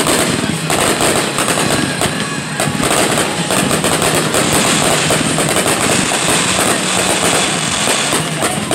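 Aerial fireworks shells bursting in rapid succession: a dense, continuous barrage of booms and crackling.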